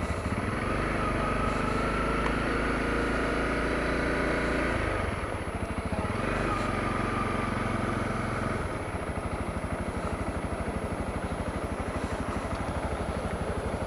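Honda CRF250L's single-cylinder four-stroke engine running steadily at low speed, easing off about five seconds in and pulling again briefly. From about nine seconds it settles to an idle with an even, rapid pulsing beat.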